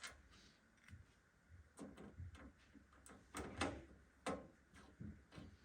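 Small metal screws and parts being handled and sorted by hand: a scatter of light clicks and knocks, several in the second half.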